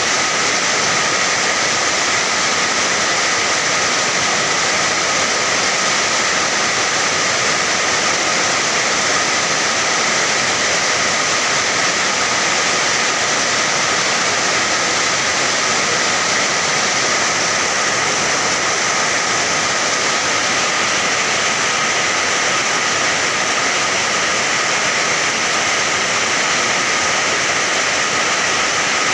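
Steady rain: a dense, even hiss with no breaks or single drops standing out.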